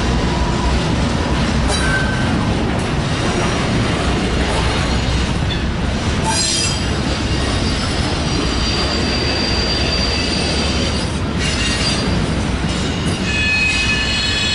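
Loaded double-stack intermodal well cars of a freight train rolling past at close range, a steady heavy rumble of steel wheels on rail. High-pitched wheel squeal rises in near the end.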